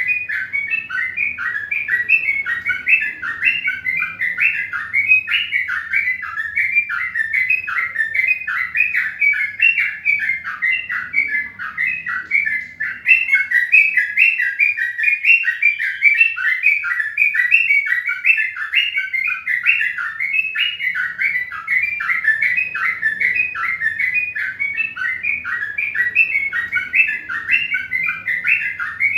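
A crowd of small birds chirping continuously, many short, falling chirps overlapping several times a second, with no pause.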